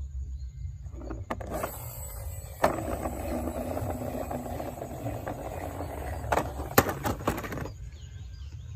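Small diecast toy cars rolling and rattling on a hard surface for about six seconds, with a few sharp clicks.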